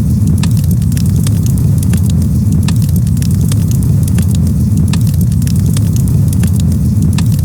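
Campfire crackling: many small, sharp, irregular pops and snaps over a steady low rumble.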